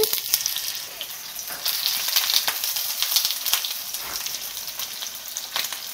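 Skewered rice cakes and sausages pan-frying in hot oil: a steady sizzle with many small crackling pops.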